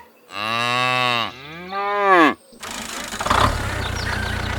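A cow mooing in two long, rising-and-falling calls. About two and a half seconds in, a small engine starts a steady idle, likely the DIY mini tractor's.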